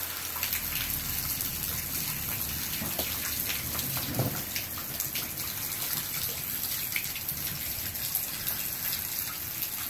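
Steady rain falling, with many small drops ticking close by and wind rumbling low on the microphone.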